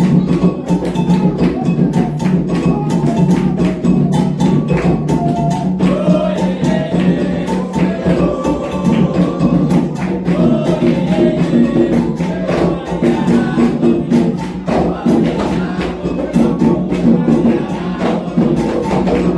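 Candomblé ceremonial drumming on atabaque hand drums, a dense steady rhythm with sharp struck percussion, joined by singing about six seconds in.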